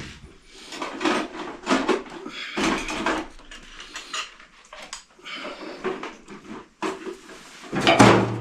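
Metal hand tools and parts clinking and clanking irregularly, with the loudest clank about eight seconds in.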